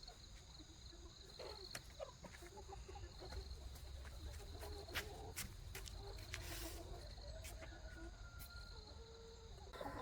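Chickens clucking softly at intervals, with a steady high insect drone behind them.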